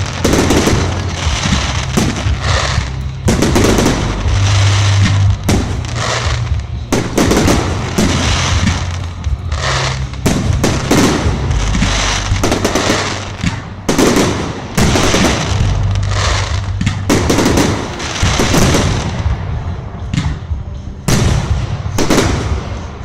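Fireworks display: a dense, unbroken run of bangs and crackles going off one on another.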